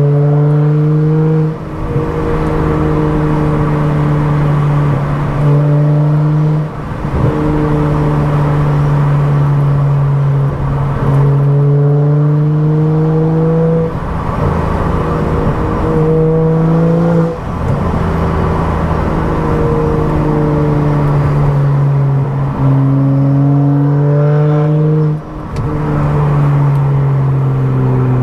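Tuned BMW F10 535i's turbocharged inline-six with a loud exhaust, pulling through the gears: the pitch climbs steadily in each gear, then drops at each of several upshifts.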